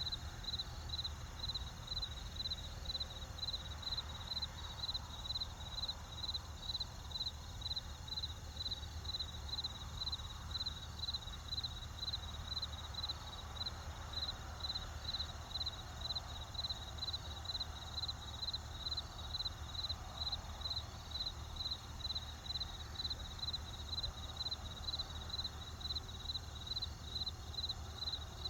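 Crickets chirping in a steady, even rhythm, about two high chirps a second, over a low steady rumble.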